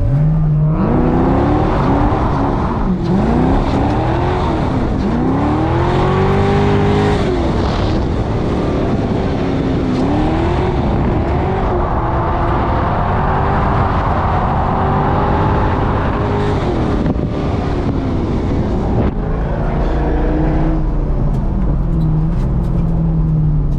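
Chevrolet C5 Corvette's LS1 V8 engine revving hard, its pitch climbing and falling again and again as the car is driven around a track, then settling to a steady low note near the end.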